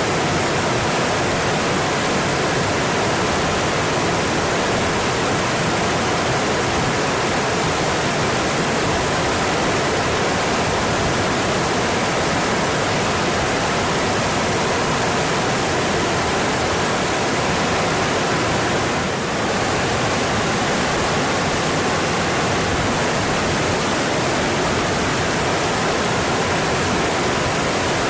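Mountain stream rushing, a steady, unbroken wash of flowing water, dipping briefly about two-thirds of the way through.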